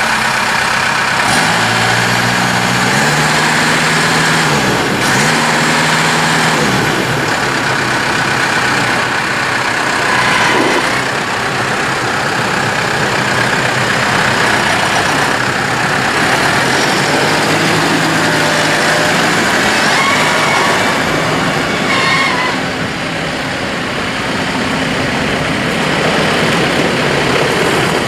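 Turbocharged four-cylinder diesel engine of a New Holland T5.115 tractor running, its pitch rising and falling a few times in the first several seconds, then running on steadily.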